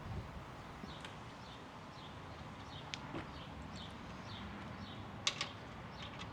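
A small bird chirping over and over, short falling chirps about twice a second, with a few sharp metallic clinks of tools, the loudest about five seconds in.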